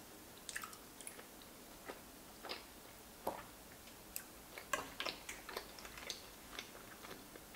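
Chewing a mouthful of soft giant fusilli pasta in a pureed sauce: faint, scattered wet mouth clicks and smacks at uneven intervals.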